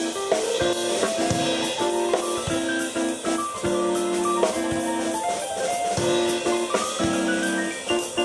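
Live keyboard and drum kit playing a rock jam: held keyboard notes and chords that change every second or so, over a steady drum beat with cymbal strikes.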